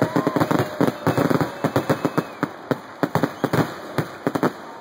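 Aerial fireworks shells bursting in quick succession, with many sharp bangs and crackles each second.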